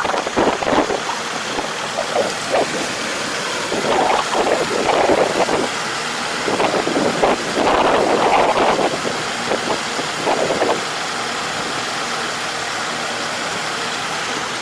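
Farm machine engine running steadily in the field, with gusts of wind buffeting the microphone during the first part.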